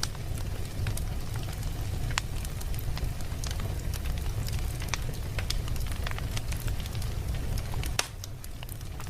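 Wood fire in a fireplace crackling: irregular sharp pops and snaps over a steady low rumble, with one louder snap about eight seconds in.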